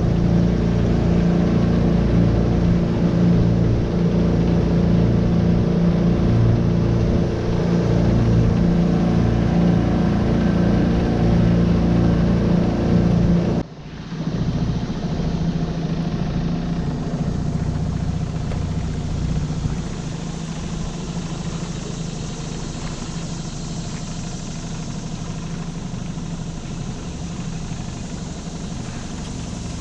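Tohatsu 9.8 four-stroke outboard motor running steadily under way, with water and hull noise. About halfway through the sound breaks off abruptly and picks up again quieter, with the engine's steady hum weaker.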